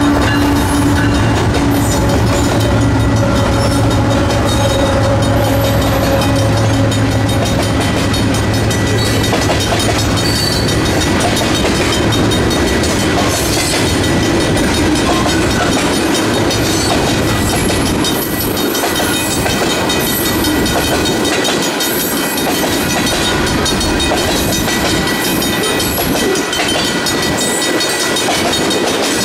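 Diesel freight locomotives running as they pass the crossing, their engine drone fading after about eight seconds. Freight cars then roll by with wheels clacking over the rail joints, while the crossing's Griswold mechanical bells ring.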